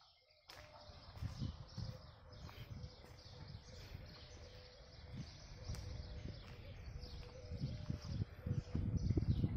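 Small birds chirping in garden trees over an uneven low rumble that grows louder near the end.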